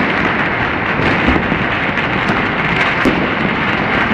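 Dense, continuous din of many firecrackers and fireworks going off across a city, their crackles and distant bangs merging into one steady rumbling crackle.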